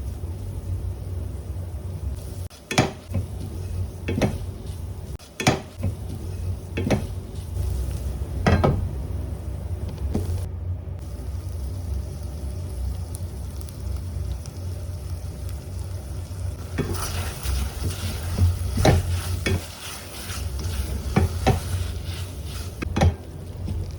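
A spoon or spatula stirring food in a pan, knocking against it about every second and a half, over a low frying sizzle.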